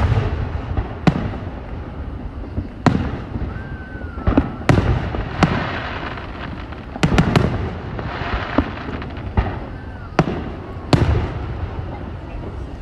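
About a dozen sharp bangs at irregular intervals, each with a short echoing tail, over a steady background noise.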